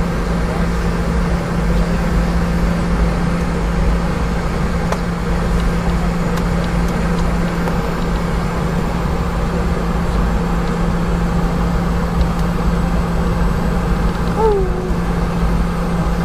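Steady cabin noise inside a Boeing 717 after landing, its two rear-mounted Rolls-Royce BR715 turbofans at idle giving a constant low drone and hum. A brief falling tone sounds near the end.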